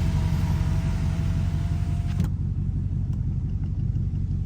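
Jeep Grand Cherokee Trackhawk's 6.2-litre V8, running without its blown supercharger, rumbling steadily at low cruising speed on a wet road. A hiss of wet road noise over it cuts off suddenly about two seconds in, while the low engine rumble carries on.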